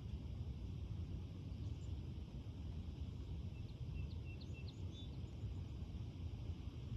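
Outdoor ambience with a steady low rumble, and a small bird giving a short run of four or five quick chirps about three and a half seconds in, followed by a couple of higher notes.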